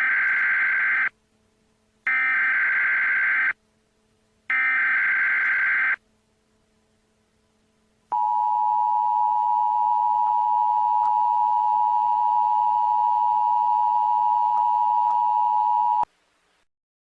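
Emergency Alert System header: three short bursts of warbling data tones, then the two-tone attention signal held steady for about eight seconds and cut off suddenly, announcing an emergency broadcast.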